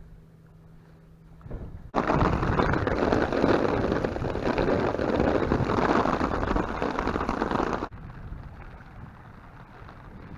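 Heavy thunderstorm rain pouring down, a loud steady hiss that starts abruptly about two seconds in and cuts off suddenly about six seconds later.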